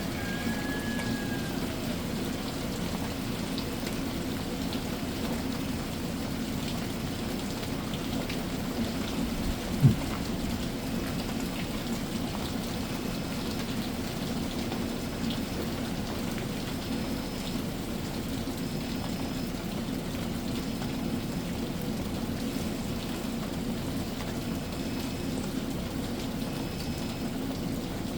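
Steady summer rain shower falling, an even hiss of rain with no let-up. A single sharp knock stands out about ten seconds in.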